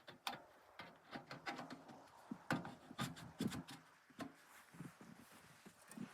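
A run of irregular light knocks, clicks and crunches, loudest about halfway through, over a faint hiss.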